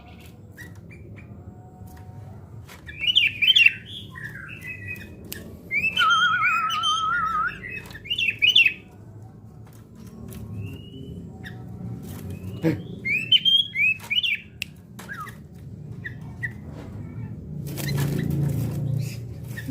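Sooty-headed bulbul (kutilang) calling in several short bursts of quick, chattering notes, with a wavering trill about six seconds in. Scattered clicks throughout and a low rumble near the end.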